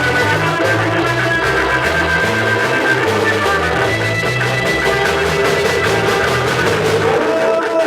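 Live rock band playing an instrumental passage: electric guitars over bass and drum kit, the bass line repeating steadily until it drops out near the end.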